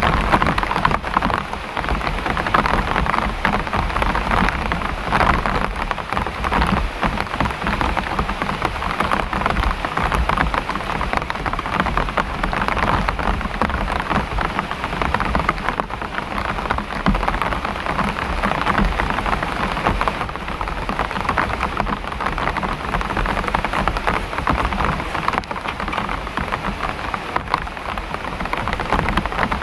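Heavy rain falling in a steady downpour, a dense even hiss with no let-up.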